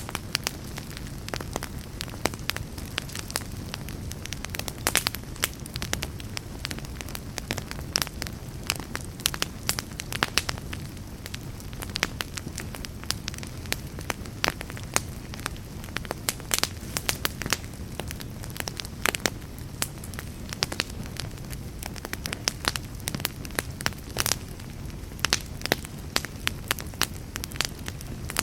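Log fire crackling, with frequent irregular sharp pops over a steady low rumble of the flames.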